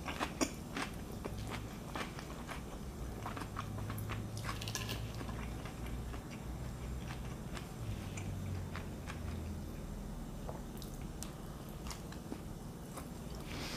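Close-miked chewing of a mouthful of steak salad, wet, with small crunchy crackles from lettuce and cucumber. A fork picks through the salad on the plate and clicks against it a few times.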